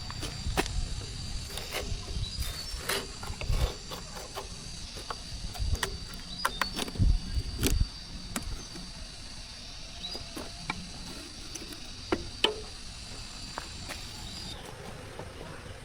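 Irregular knocks and clicks, some with a low thud, heaviest in the middle. A steady high-pitched tone runs underneath and stops near the end.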